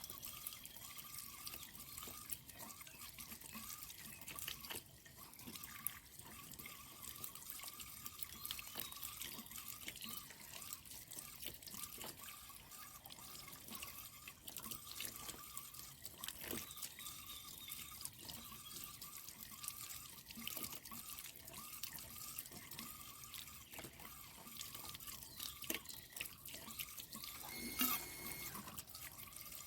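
Water trickling and dripping with small irregular splashes and clicks as a water-tank filter is rinsed by hand.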